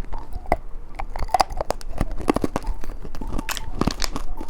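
Close-miked eating of a mushroom-shaped candy: irregular crackling clicks and crunches as it is bitten and chewed.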